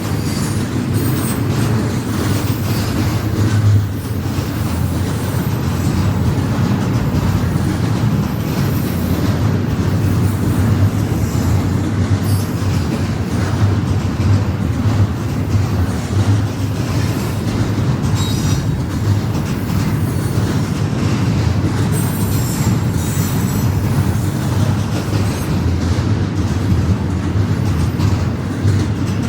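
Freight train cars rolling past close by: a steady rumble of steel wheels on the rail, with brief high wheel squeals now and then.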